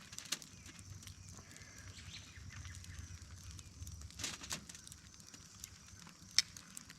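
Scattered faint clicks and knocks as chicken wings are set on a charcoal grill, over a steady high trill of insects.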